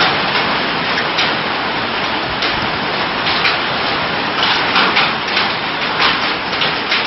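Heavy storm rain, a loud steady rush with many sharp knocks scattered through it.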